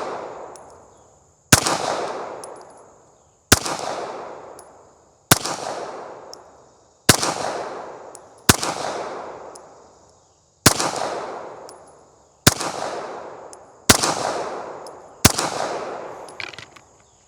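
Pistol shots fired slow and deliberate, nine of them, one every one and a half to two seconds, each followed by a long echo dying away: slow-fire group shooting.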